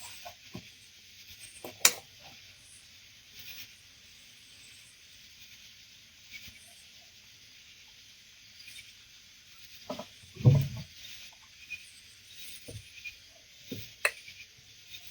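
Handling noises in a kayak: scattered light clicks and knocks, and one louder low thump with a rustle about ten seconds in, over a steady faint high hiss.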